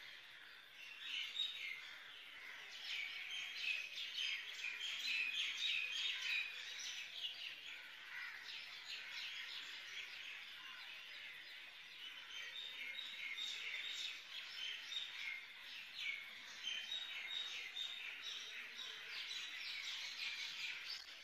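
Many small birds chirping continuously, a dense chorus of short, high calls.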